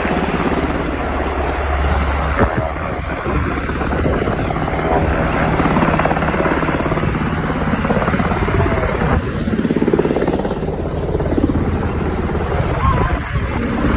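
Helicopter rotor running steadily, its blades beating in a fast, even chop.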